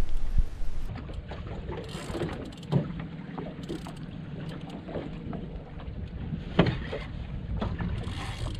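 Small boat on the water: wind on the microphone and water against the hull make a steady low rumble, broken by scattered knocks, two of them louder about a third of the way in and near the end.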